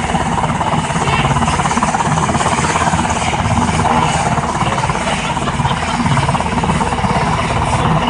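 Helicopter running close by: a loud, steady, rapid chop of the rotor blades that holds evenly throughout.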